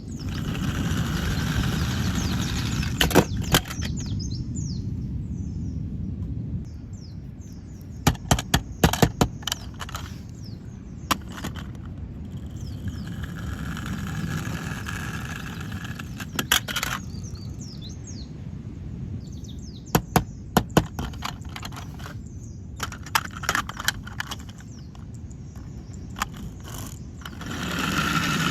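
Hard plastic toy vehicles clicking and clacking as they are handled, in short clusters of sharp clicks every few seconds, over a steady low rumble with birds chirping.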